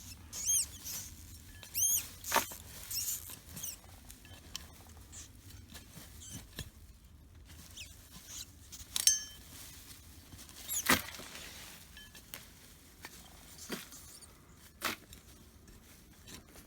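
Rats squeaking in a nest just dug open in the soil. High, arching squeaks come about half a second and two seconds in, and again around nine seconds, among rustling and scraping of soil and a few sharp knocks.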